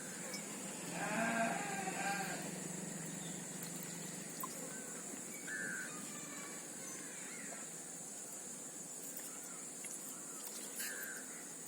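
Bleating livestock: one long, wavering bleat about a second in, then a couple of faint short high chirps over a steady background hiss.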